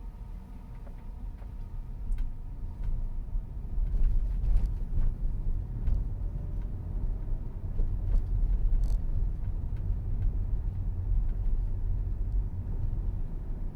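Road and tyre rumble of a Tesla electric car driving, heard from inside the cabin. It is low and steady, gets louder about two seconds in and again about four seconds in, and stays up from then on.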